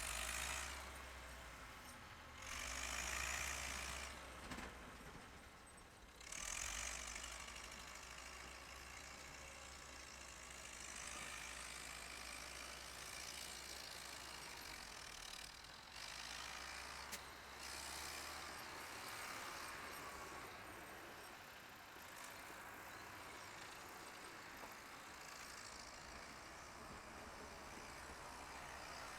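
Faint engine running steadily under an even hiss; the low hum stops about 18 seconds in.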